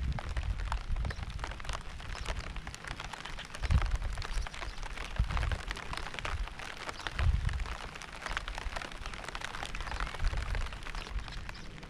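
Steady rain, a dense hiss of many separate drops ticking, with low rumbles swelling up every few seconds.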